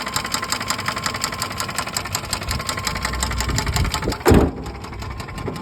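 Car running, with a rapid, even ticking of about eight ticks a second and a single loud thump a little over four seconds in.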